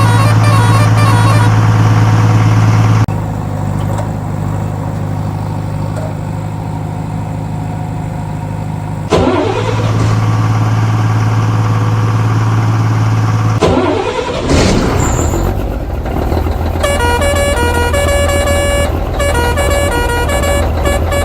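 Animated truck sound effects: a steady low engine-like drone, louder for the first few seconds, broken by two quick rushing sweeps, then a repeating tune of short notes joining in toward the end.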